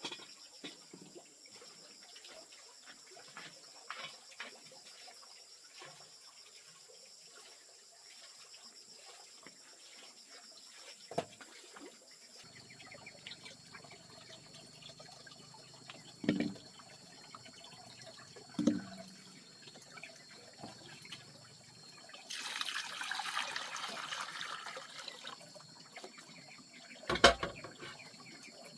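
Water pouring or running for about three seconds, about three-quarters of the way through, among scattered light clicks and a few knocks from handling things.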